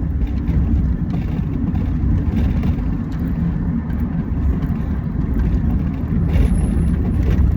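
Steady low rumble of a vehicle on the move, with no clear separate events.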